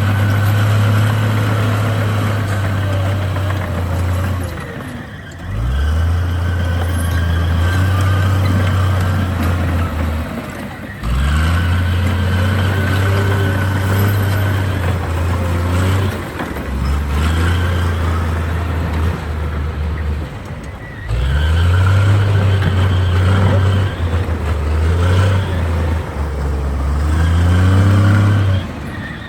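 A heavy diesel engine of construction machinery working hard. Its note drops off briefly every five or six seconds, then climbs back up and holds.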